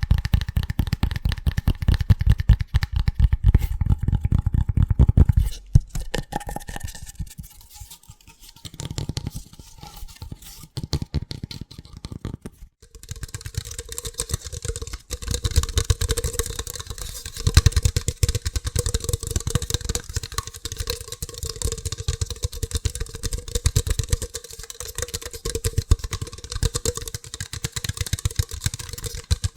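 Very fast, aggressive tapping on hard objects, a dense stream of clicks with a faint ringing tone from the tapped surface. The sound changes about five seconds in and again about thirteen seconds in, as the tapping moves to different objects.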